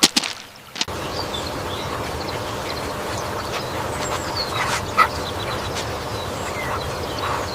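Ducks quacking and calling in short scattered calls over a steady background noise, after a few sharp clicks in the first second.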